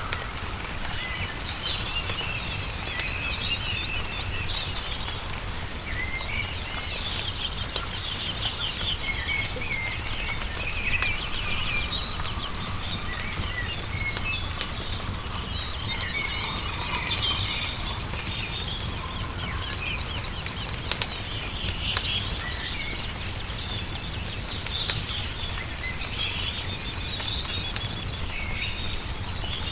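Small songbirds chirping and trilling throughout, over a crackling wood fire with scattered sharp pops and a steady low rumble.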